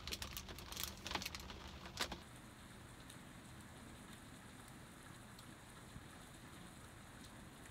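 A foil candy wrapper crackling for about the first two seconds, then steady, faint rain falling on a wooden deck.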